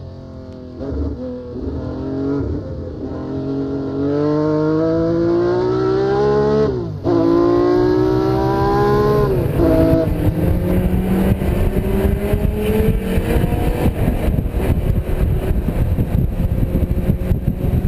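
A car engine accelerating hard on track: its pitch climbs steadily, drops sharply at an upshift about seven seconds in, and climbs again. From about ten seconds in it becomes a louder, rougher rush with wind noise.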